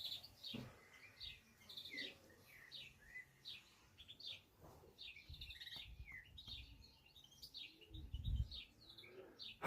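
Small birds chirping and twittering faintly in quick runs of short high notes, with a low rumble about eight seconds in.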